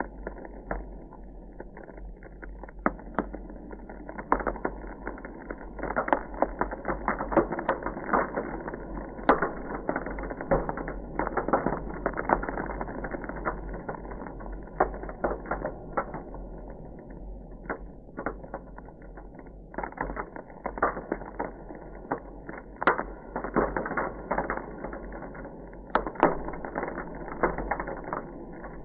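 Ice crackling: a dense, irregular run of small cracks and pops that thickens in two busy stretches, about a fifth of the way in and again past two-thirds, over a steady low hum.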